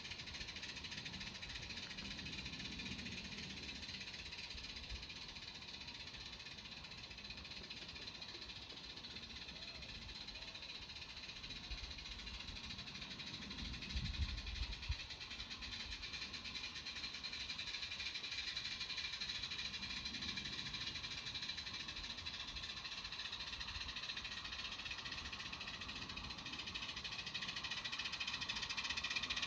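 A 16mm-scale garden railway train running, faint at first and louder near the end as it comes closer. A few low thumps come about halfway through.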